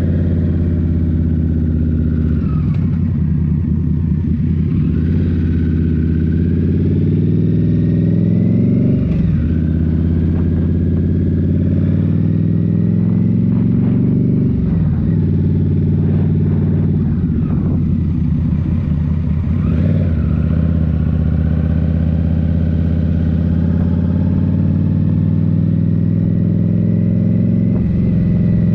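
Indian Scout Rogue's 69 cubic-inch V-twin running through a Rinehart slip-on exhaust while riding, its pitch rising and falling several times as the revs change.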